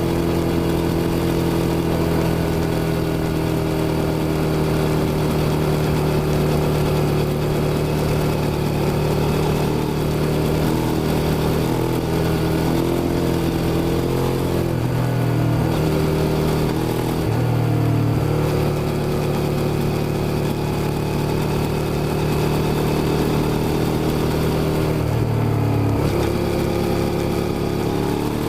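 Suzuki SV650's V-twin engine running steadily, its pitch dropping and rising several times as the throttle and revs change.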